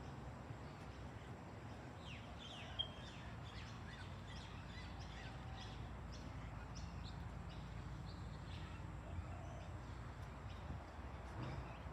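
Birds chirping in short repeated calls over a low steady rumble.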